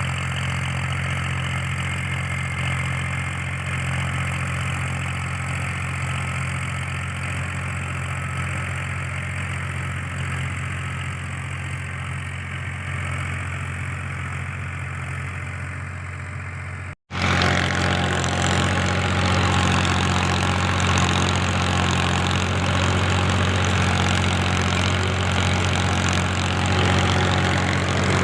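Powertrac 434 tractor's diesel engine running steadily. About seventeen seconds in the sound cuts out for a moment and comes back louder.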